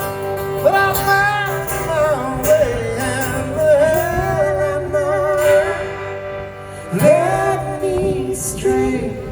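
Live acoustic country song: sung lines with long held notes over acoustic guitar accompaniment.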